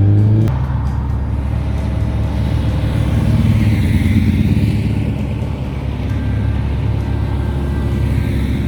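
Car engines rumbling as cars drive past, with a rising rev that breaks off about half a second in. A car's noise swells and fades about four seconds in as it passes.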